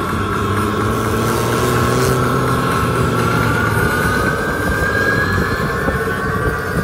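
Drift cars held at high revs as they slide sideways through a run, the engine note slowly rising.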